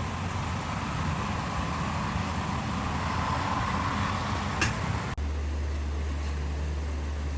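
Steady rain noise with a low rumble, a single sharp click about four and a half seconds in, then an abrupt switch to a different steady background with a deeper, even low rumble.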